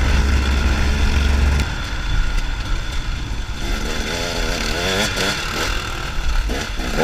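Trail motorcycle engine running with a strong steady low note that drops away about one and a half seconds in, leaving rougher engine noise; voices talk over it in the second half.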